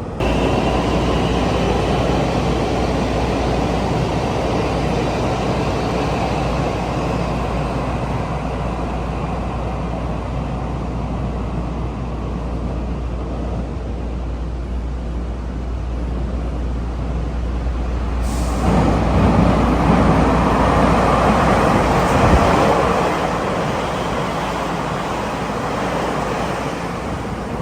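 Taiwan Railway train running past: a steady rumble and rush over a low hum, growing louder and brighter about two-thirds of the way through.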